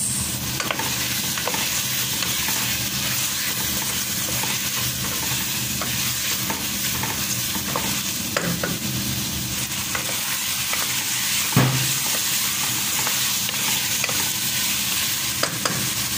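Diced chicken, potatoes and carrots sizzling in hot oil in a metal pot, stirred with a wooden spatula that knocks and scrapes against the pot now and then, with one louder knock about two-thirds of the way through.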